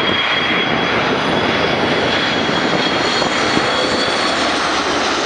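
Airbus A330 jet engines on landing approach: a loud, steady rush of jet noise with a thin high whine running through it.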